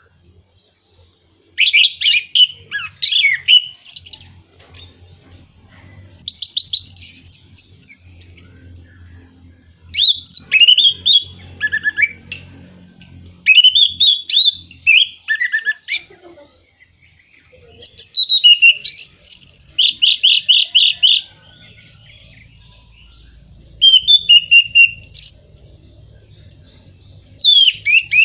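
Orange-headed thrush singing: about seven loud phrases of rapid, sweeping whistled and chattering notes, each lasting one to three seconds, with short pauses between them. A faint low hum runs underneath.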